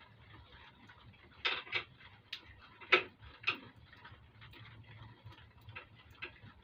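A few light, irregular metallic clicks and taps of small hardware being handled, such as bolts and washers, with the loudest about three seconds in.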